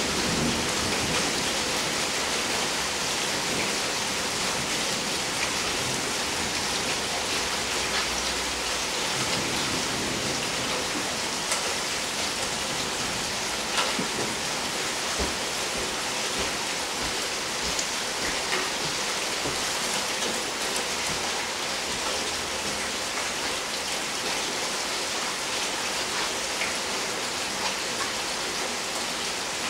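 Steady rain falling, a constant even hiss with scattered sharper drip taps.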